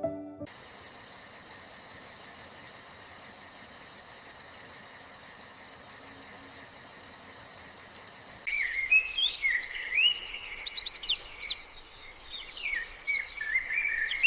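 Nature ambience: a steady, high insect trill for about eight seconds, then birds start chirping and calling in quick, rising and falling notes.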